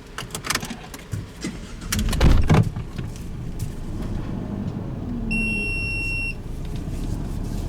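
A run of clicks and knocks inside an ambulance, with a loud thump about two seconds in. Then a steady low engine hum, with one electronic beep lasting about a second.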